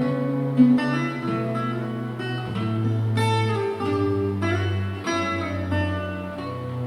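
Instrumental guitar music: a picked melody over sustained chords, with a low bass line that changes note every second or two.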